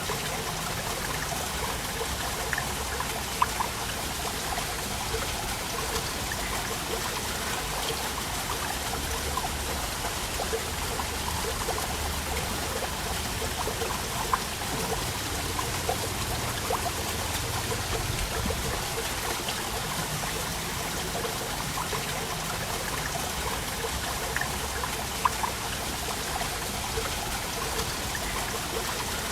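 A waterfall: a steady rush of falling water with many small splashes and drips, and a few louder splashes along the way.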